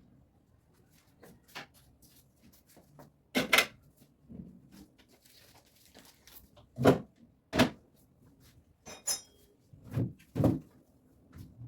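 Scattered knocks and clatters of fridge racks and items being handled, set down and the fridge opened and closed: about half a dozen sharp hits, the loudest around the middle, with a brief light rattle near the end.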